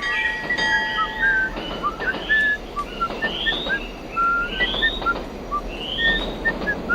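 Birds chirping, with one short rising call repeating about every second and a quarter over many quick, scattered chirps and a steady hiss.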